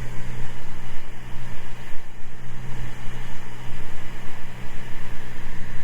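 Cessna 206 Stationair's flat-six piston engine and propeller running at a steady drone, heard inside the cabin.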